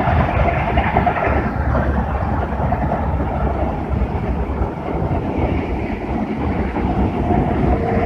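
A train passing close by: a steady, loud rumble of its wheels on the rails.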